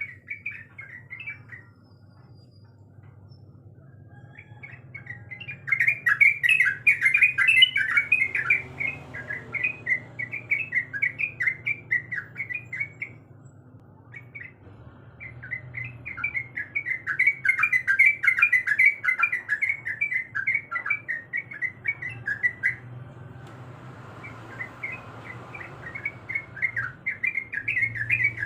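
Yellow-vented bulbul singing: long bouts of rapid, chattering notes with short pauses between them, over a faint steady low hum.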